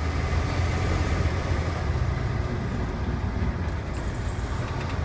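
Steady low engine and road rumble inside the cab of a vehicle being driven on a skid-truck training rig.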